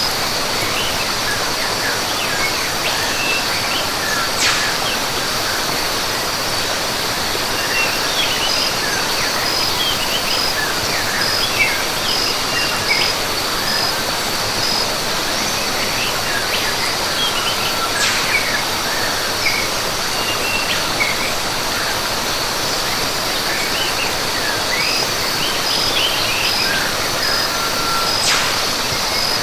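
Rainforest ambience: a steady rush of falling water, with birds chirping on and off and a high insect drone that pulses in an even rhythm at the start and again near the end.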